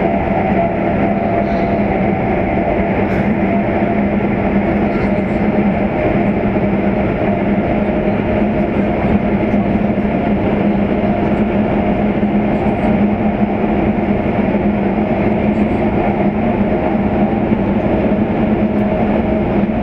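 CRH2 high-speed train running through a tunnel, heard from inside the passenger car: a loud, even rumble of wheels and rushing air with a constant low hum beneath it.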